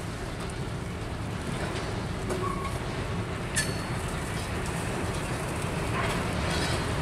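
A string of empty covered hopper cars rolling by on the rails, a steady low rumble that grows louder, with a sharp metallic click about three and a half seconds in.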